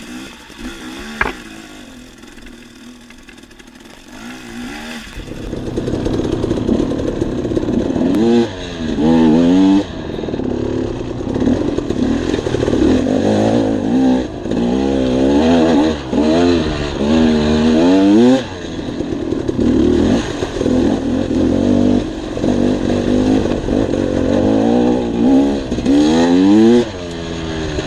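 Dirt bike engine being ridden over rough trail: quiet at first, then from about five seconds in it revs up and drops back again and again as the throttle is worked.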